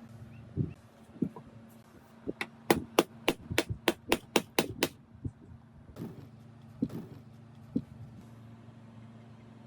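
A hammer striking repeatedly, a quick run of about ten sharp blows at about four a second, with a few single knocks before and after.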